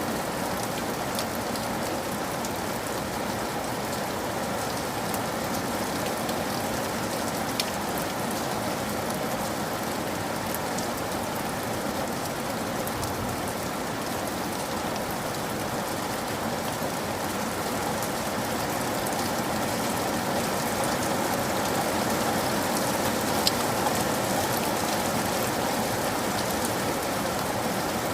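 Steady rain falling, a dense even hiss with scattered sharper drops tapping close by, strongest briefly at about 8 and 23 seconds in.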